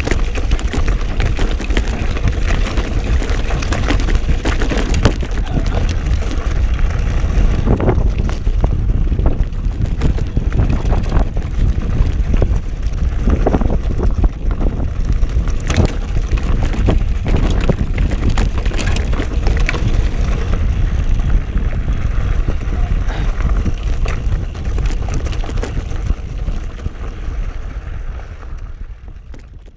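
Intense Primer 29 full-carbon trail bike being ridden over rough trail: a steady rush of wind on the microphone with the clatter and sharp knocks of the bike over rocks and steps. The sound fades near the end and then cuts off.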